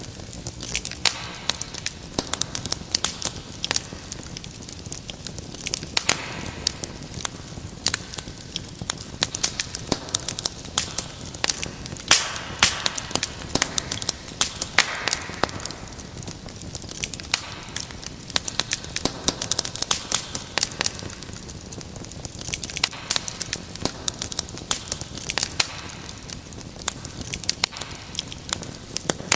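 Wood fire crackling: many irregular sharp pops and snaps over a steady hiss of burning, busier in some stretches than others.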